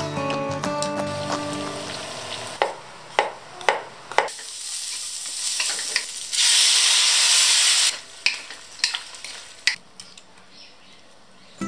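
A loud sizzle of a soy-and-oyster sauce mixture hitting a hot wok of stir-frying vegetables, strongest for about a second and a half, with several sharp utensil clinks before and after it. Background music fades out in the first few seconds.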